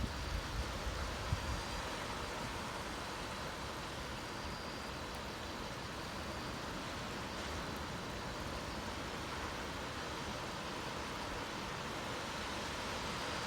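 Steady rush of breaking surf from a typhoon swell, with wind buffeting the microphone near the start.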